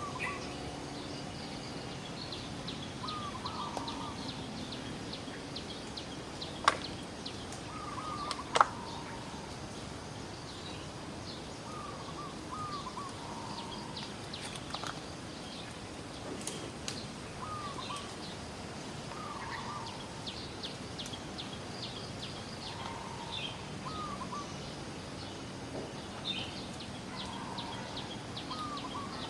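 Outdoor ambience of birds calling: a short, repeated call about every two seconds, with fainter high chirps over a steady hiss. Two sharp clicks stand out about a third of the way in.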